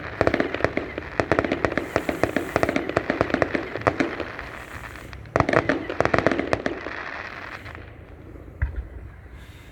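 Fireworks crackling: a dense run of rapid pops and crackles, a fresh loud burst about five seconds in, dying away near the end, with one low thump shortly before the end.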